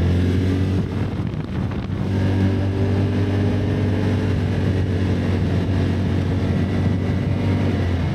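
Can-Am ATV engine running at a steady pace while riding, dipping slightly about a second in, with wind buffeting the microphone.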